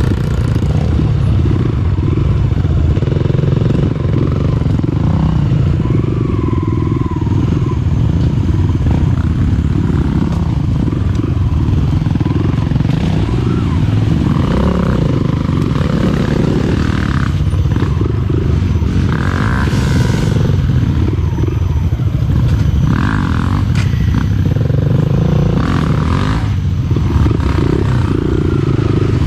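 Dirt bike engine running steadily while being ridden along a forest trail, with occasional clatter of the bike over rough ground.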